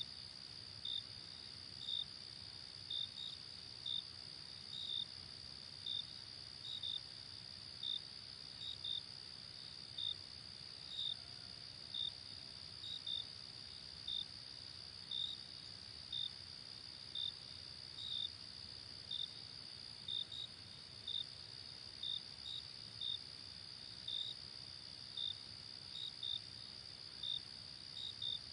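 Crickets at night: a steady high trill, with short chirps repeating about one to two times a second, over a faint low background hiss.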